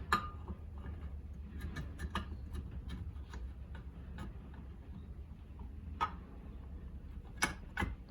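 Light metallic clicks and taps as a clutch side cover is worked onto a motorcycle-type engine crankcase, with louder knocks about six seconds in and twice near the end, over a steady low hum.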